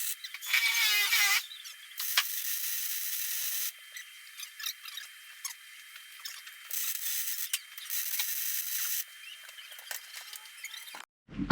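Welding arc crackling and hissing in several runs of a few seconds each, stopping and starting between beads, as a seam on the water tank is welded. A brief squeal comes about half a second in.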